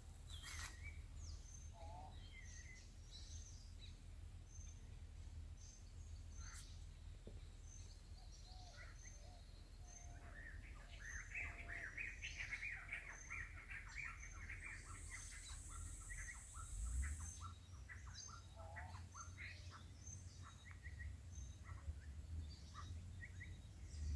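Birds chirping and calling, with many short scattered chirps and a dense flurry of chirping about halfway through. A steady high-pitched hiss comes in for about three seconds, and a low rumble runs underneath throughout.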